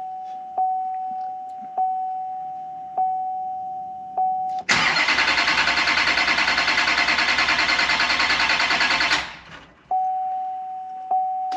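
Chevy Silverado's Duramax diesel V8 being cranked by the starter for about four seconds, turning over steadily but never firing, then the key released: a crank-no-start that a jump pack has not cured. Before and after the cranking the truck's warning chime dings about once every second.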